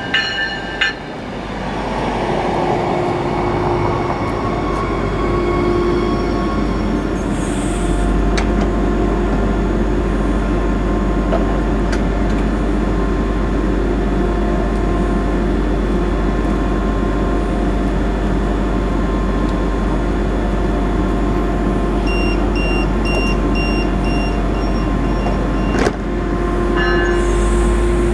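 Stadler GTW diesel multiple-unit light-rail train coming to a stop at a platform, then standing with its diesel engine humming steadily. Near the end comes a run of short high beeps, a hiss of air, and the engine note strengthens as the train gets ready to pull away.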